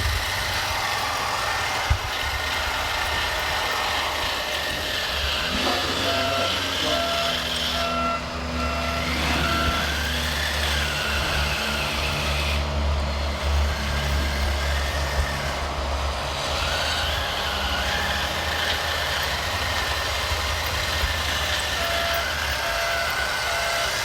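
Scale RC model trucks working, with a steady low truck-engine rumble and a whine that rises and falls with the drive. A reversing beeper sounds in short regular beeps for a few seconds twice, about six seconds in and near the end.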